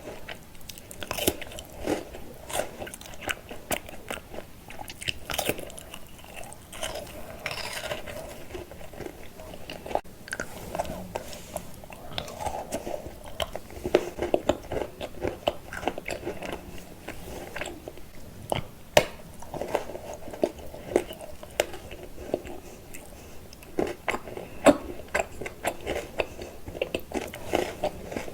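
Close-up chewing and biting of chocolate candy, with many sharp crunches and crackles throughout and a few louder bites.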